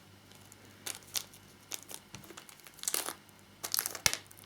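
Model-kit parts and their packaging being handled: a few short crinkling rustles and light clicks, with a sharper click near the end.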